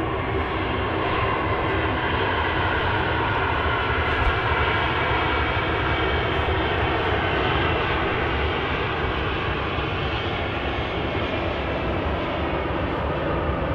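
Jet airliner's engines running loud and steady, with faint whining tones that fade in the first few seconds.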